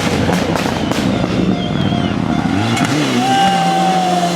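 Rally car engine at high revs passing on a stage, with a rough, crackling note early on; about three seconds in the revs drop briefly and then climb again to a steady high note.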